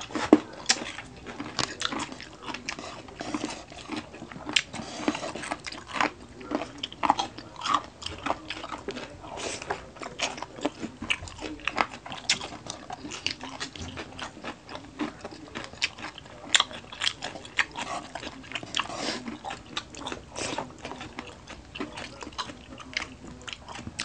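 Close-up mouth sounds of people eating with their hands: chewing, lip smacking and crunchy bites, an irregular run of short clicks and crackles.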